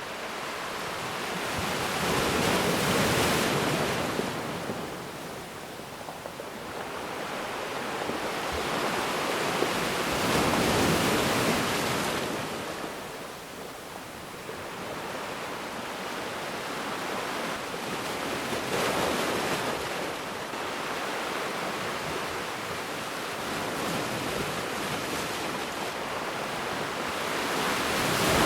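Ocean waves breaking and washing on a beach, a steady hiss of surf that swells and ebbs in slow surges about every eight seconds.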